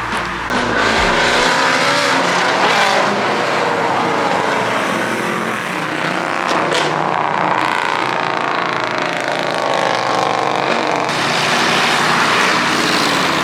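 A car engine revving hard and accelerating, its pitch rising and falling several times over a loud rushing noise.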